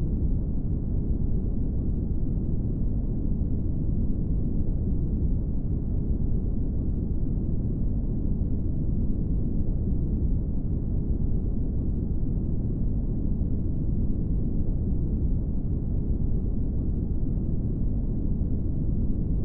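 Brown noise: a steady, deep rushing hiss, heaviest in the low end and dull at the top, unchanging throughout.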